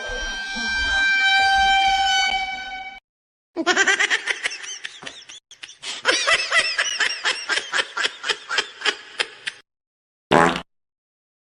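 Goofy cartoon-style sound effects: a held, slightly wavering horn-like tone for about three seconds, then after a short gap a fast run of chattering, laugh-like squeaks that rise and fall in pitch and slow down toward the end, and one short blip near the end.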